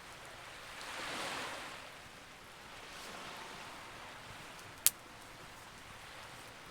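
Campfire ambience with waves washing in, swelling about a second in and again more gently around three seconds, over a steady soft hiss. A single sharp pop from the burning wood about five seconds in is the loudest sound.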